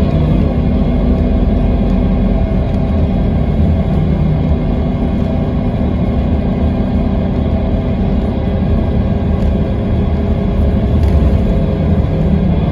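Scania K320IB4 coach's diesel engine running steadily, a constant engine note with little change in pitch.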